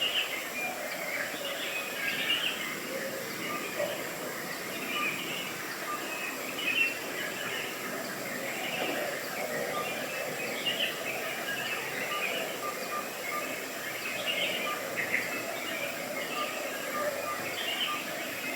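Birds chirping and calling over a steady outdoor background hiss, with a string of short, evenly spaced peeps in the second half.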